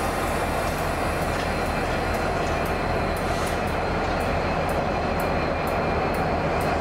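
A train running through the station: a steady, even rumble. From about halfway, a run of sharp light ticks comes at about three a second.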